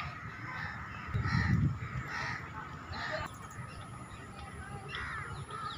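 Birds calling outdoors: short, harsh calls repeat about once a second, with a few higher chirps near the end.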